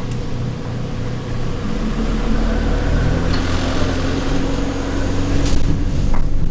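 Alexander Dennis Enviro200 bus engine heard from inside the saloon, its note rising and getting louder about two seconds in as the bus pulls harder through the Allison automatic gearbox. Body panels and fittings rattle throughout, with a couple of sharp knocks.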